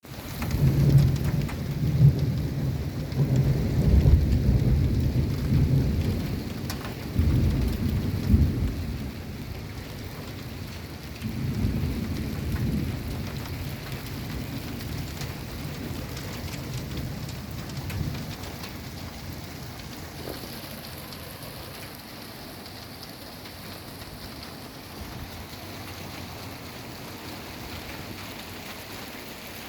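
Steady rain during a thunderstorm, with loud rolling thunder rumbling through the first dozen seconds or so, then fading out while the rain keeps on.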